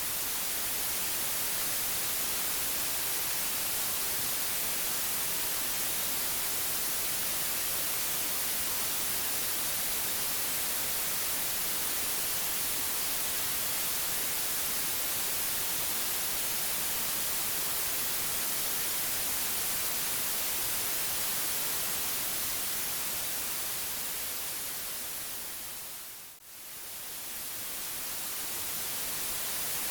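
Steady white noise, an even hiss brightest in the highs. It fades down briefly and swells straight back up near the end.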